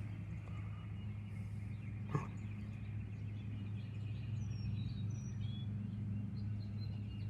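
Outdoor ambience: a steady low hum with a few faint, short high bird chirps about four to five seconds in. A single sharp click comes about two seconds in.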